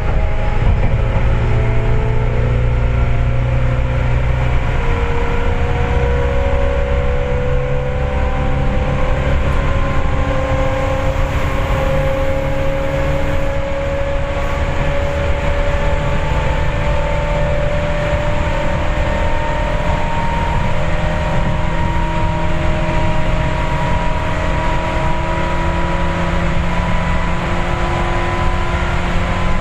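Seibu 4000 series resistance-controlled electric train heard from inside the car while running: a steady rumble of wheels on the rails under a traction motor and gear whine that rises slowly in pitch as the train gathers speed.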